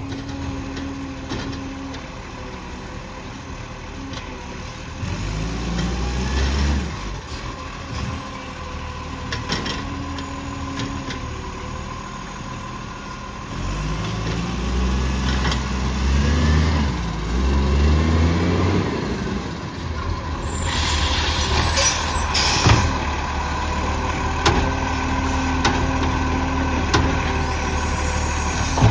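Garbage truck engine revving up and falling back several times, with a burst of air-brake hiss about two-thirds of the way through.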